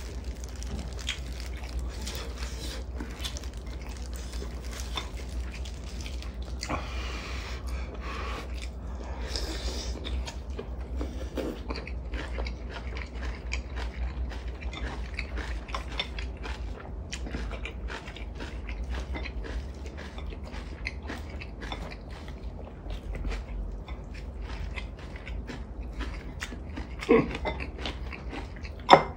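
Close-up eating sounds: two people chewing braised kimchi and mackerel, with many small clicks of chopsticks and mouths, and a couple of brief louder sounds near the end.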